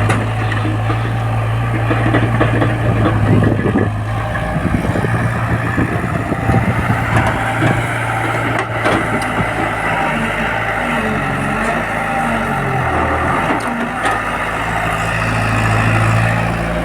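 Sonalika tractor's diesel engine running steadily, with irregular rattling and knocks in the first half. About ten seconds in, its pitch wavers and dips for a few seconds, then settles back.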